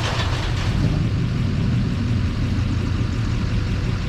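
Engine and road noise inside a rollback tow truck's cab while driving: a steady low hum under an even rushing noise.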